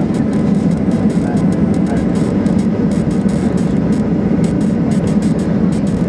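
Steady engine and cabin noise inside a Boeing 737-800 on the ground after landing, heard from a window seat.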